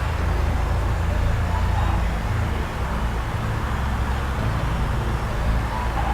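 Steady low rumble with a rushing hiss over it, unchanging throughout, typical of outdoor airport noise.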